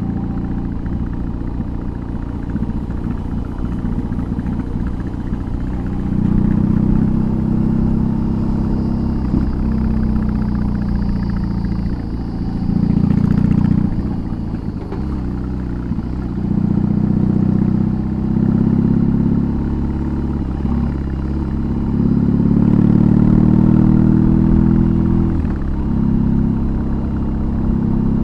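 BMW R18's big boxer twin running through a custom exhaust while riding, a deep steady rumble. It swells louder several times as the throttle is opened and eases back in between.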